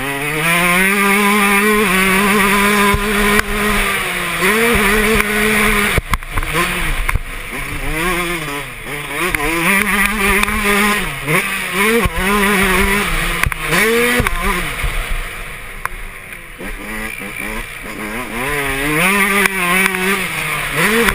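Yamaha YZ125 single-cylinder two-stroke engine revving hard as the bike is ridden round a motocross track: the pitch climbs, holds and drops again and again as the rider shifts and throttles on and off, with a few sharp knocks from bumps.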